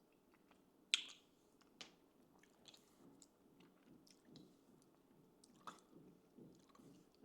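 Faint mouth sounds of someone tasting a smoothie: a few soft lip smacks and swallows, the sharpest about a second in.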